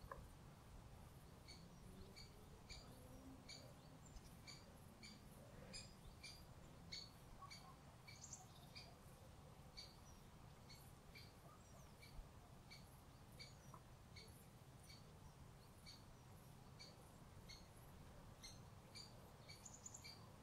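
Near-silent outdoor ambience with a small bird's short, high call repeated steadily, about one to two chirps a second.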